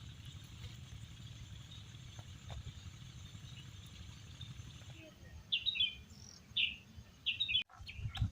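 Outdoor ambience with a low rumbling background noise. From about five seconds in, birds chirp in short, separate calls, several in a row.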